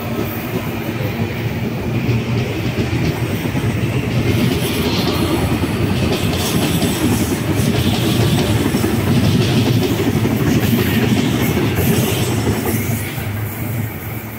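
CPTM electric suburban train passing close by and pulling away, its wheels clattering over the rail joints. The running noise grows louder through the middle and fades near the end as the train recedes.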